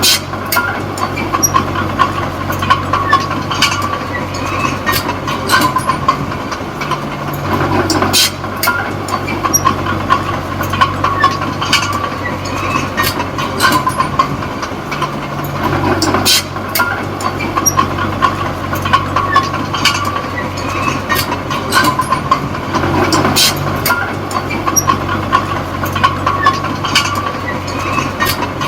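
Small crawler bulldozer (Komatsu D20P) working: its diesel engine runs steadily under the clanking and rattling of its steel tracks, with a steady high whine. The engine note dips and swells again about every seven to eight seconds as the dozer works back and forth.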